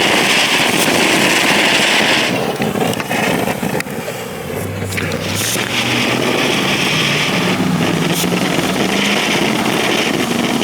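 Firework fountain spraying sparks with a loud, steady hiss. The hiss breaks off about two seconds in and starts again a few seconds later, with a few sharp cracks in between.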